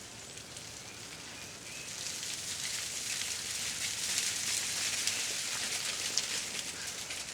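Ice coating the trees popping and cracking as it thaws: a dense run of tiny crackles that grows louder about two seconds in.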